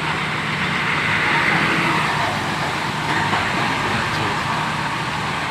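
Diesel engine of a Hino AK8 bus running steadily as the bus moves slowly forward, with a steady low engine hum under a noisy hiss.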